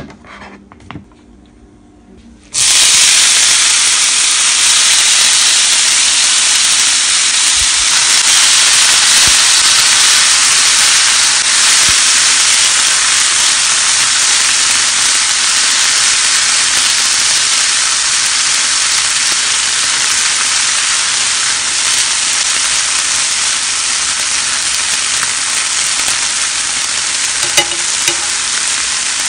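Corn kernels tipped into a hot frying pan start sizzling suddenly about two and a half seconds in. The loud sizzle holds steady, easing slightly as they are stirred with a wooden spatula, with a couple of small pops near the end.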